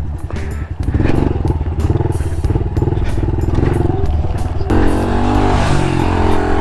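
Honda CRF110 pit bike's small single-cylinder four-stroke engine running under throttle on a trail ride. It picks up about a second in, and its pitch changes near five seconds in.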